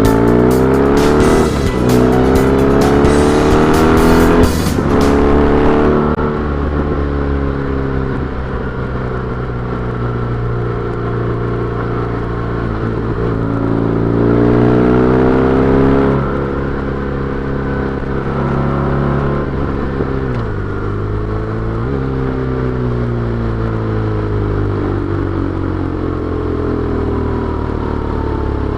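BMW R1200GS boxer-twin engine under way, its revs climbing and then dropping sharply again and again as it shifts through the gears. Heavy wind noise hits the microphone for the first several seconds.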